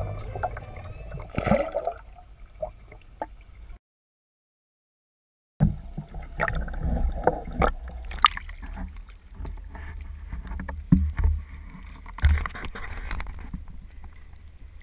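Wind and choppy water around a small boat, heard on a boat-mounted action camera: a rough low rumble with scattered knocks and splashes. The sound cuts out completely for about two seconds near the middle, then resumes.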